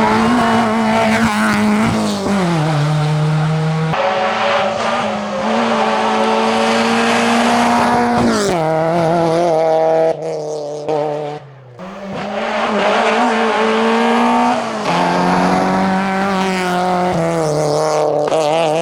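Citroën Saxo VTS 16V's 1.6-litre 16-valve four-cylinder engine revving high under hard acceleration. The pitch drops sharply at gear changes about two and eight seconds in. The engine goes briefly quieter around ten seconds in, then pulls hard again.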